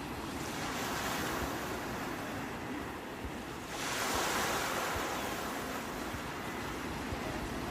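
Sea waves washing on the shore, a steady hiss of surf with one wave breaking about halfway through and swelling louder, over a low rumble.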